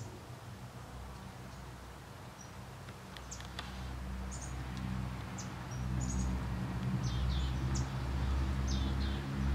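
Short, high bird chirps, scattered singly and in pairs from about three seconds in, over a low steady hum that grows louder about halfway through.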